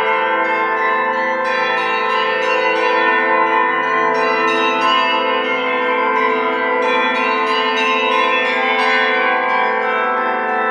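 Russian Orthodox church bells ringing: several bells of different pitches struck in quick succession, a few strikes a second, their tones ringing on and overlapping in a continuous peal.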